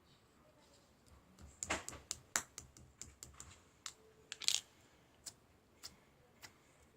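A run of irregular sharp clicks and taps, about a dozen, coming close together between about one and a half and four and a half seconds in, then a few spaced ones near the end.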